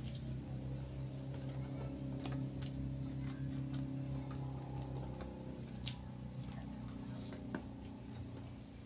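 Small wet clicks and smacks of a person chewing meat with her mouth close to the microphone, over a steady low hum.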